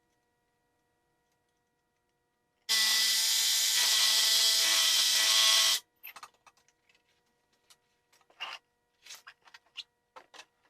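A power tool runs steadily for about three seconds and stops abruptly, followed by scattered light clicks and rubbing of handling.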